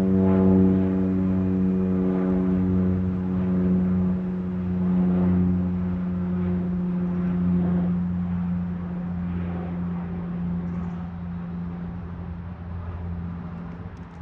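Aircraft engine hum with a steady stack of low tones, fading as the plane moves away; the higher tones drop out about halfway through.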